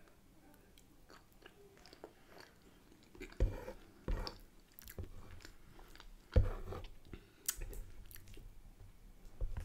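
Close-miked chewing of soft food (steak pie and mash with gravy). A few sharp clicks and knocks stand out, the loudest about six seconds in.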